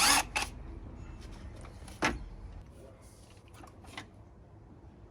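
Sharp metallic clicks and knocks of hand tools working on the power steering hoses in a car's engine bay: a quick cluster at the start, one strong knock about two seconds in, and a few lighter ticks later, over a faint low hum.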